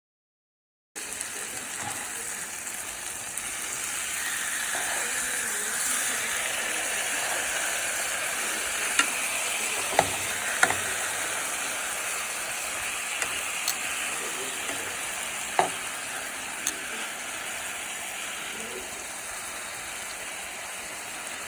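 Food sizzling as it fries in a pan, a steady hiss that starts suddenly about a second in. A few sharp clicks of a utensil against the pan come in the middle.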